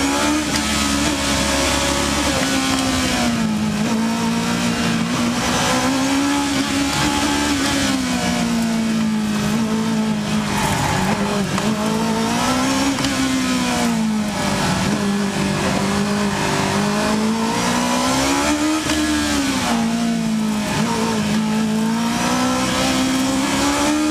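Westfield Megablade's Honda CBR1000RR inline-four motorcycle engine, heard onboard, running hard with its revs rising and falling again and again as the car weaves between slalom cones.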